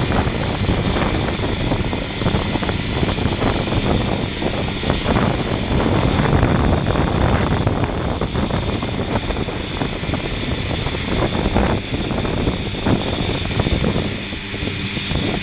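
New Holland T7.315 tractor's 6.7-litre six-cylinder diesel engine running steadily, with wind buffeting the microphone.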